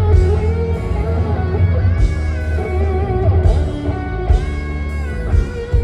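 Live rock band music led by electric guitar, with held chords and a steady deep bass underneath, played between songs at a loud concert level.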